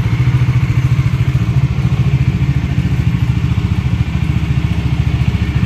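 Bajaj Dominar 400's single-cylinder engine idling steadily, an even low pulsing.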